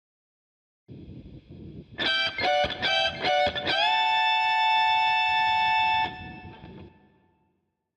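Electric guitar played through a TC Electronic Nova System multi-effects unit: a few quick picked notes, then a long held note that bends up slightly and rings for about two seconds before stopping and fading out.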